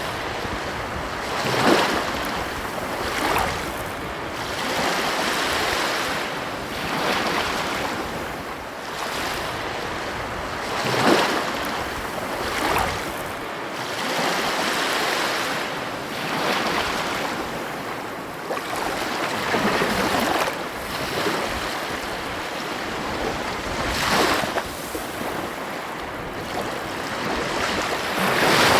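Ocean surf washing onto a beach: a continuous rush of water with several louder wave crashes now and then.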